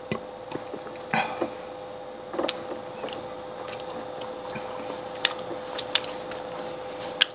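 Close-up eating sounds: wet chewing and squishing of food, with several sharp clicks, the loudest near the end, over a steady faint hum.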